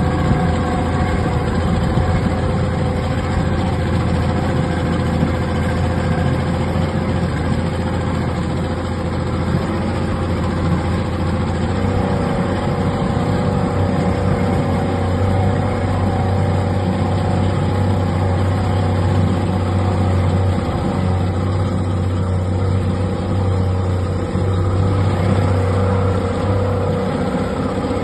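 Tour boat's motor running steadily, a low, even hum that does not change pitch.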